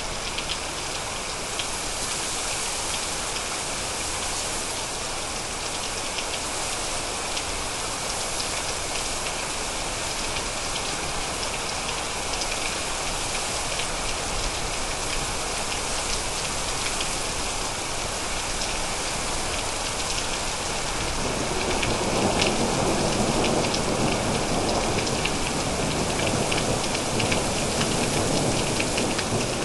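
Steady rain falling, with a pattering of individual drops. About two-thirds of the way through, a low rumble of thunder builds and rolls on under the rain.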